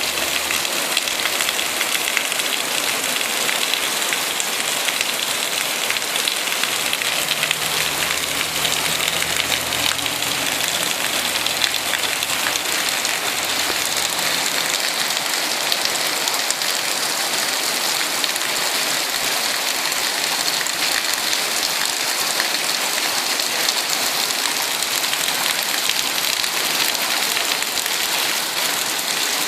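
Tropical rain falling steadily, an even hiss with no let-up. A faint low rumble comes in from about seven to fifteen seconds in.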